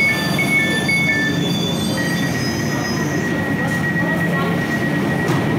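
Stationary Class 345 Elizabeth line train at the platform, its equipment humming steadily. An alternating high-low electronic beeping, about two beeps a second, stops about a second and a half in. A single steady high tone follows.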